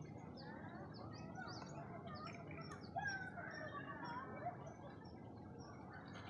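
Many small birds chirping, with repeated short high notes and some longer, bending calls, over a steady background noise.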